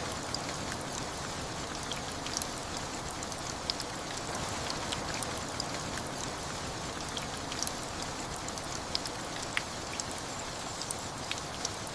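Steady rain falling, with many sharp, scattered ticks of single drops striking a surface.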